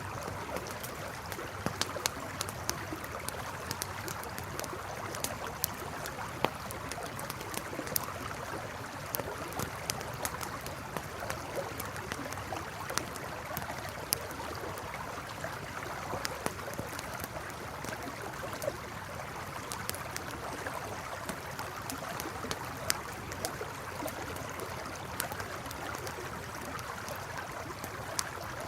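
A river flowing steadily, with a campfire crackling over it in sharp, irregular pops.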